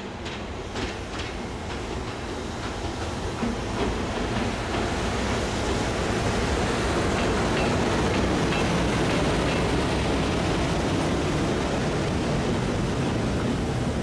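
Freight train behind a JR Freight EF510 electric locomotive rolling past on the main line. Sharp clacks of wheels over rail joints come in the first couple of seconds, then the rolling rumble of the wagons grows louder and holds steady.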